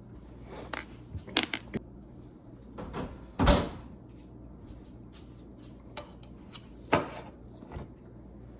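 Light clicks and clinks of small hard objects being handled and set down, with a louder clatter about three and a half seconds in.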